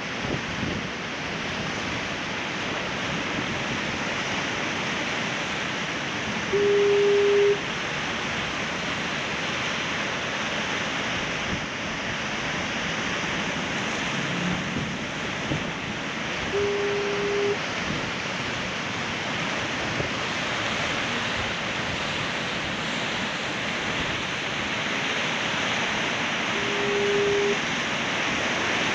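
Ocean surf washing steadily against rocks, with a foghorn sounding three short, steady, single-pitched blasts about ten seconds apart.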